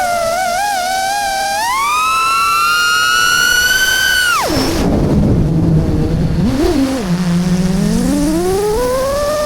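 FPV racing drone's brushless motors whining, the pitch wavering, then climbing to a high whine about two seconds in as the throttle comes up. About four and a half seconds in the pitch drops abruptly to a low hum with a rush of air as the throttle is chopped, blips once, then rises steadily again near the end.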